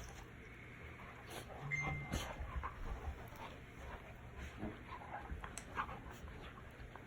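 Poodle puppies playing: scattered light taps and scuffles, with a brief high whine about two seconds in.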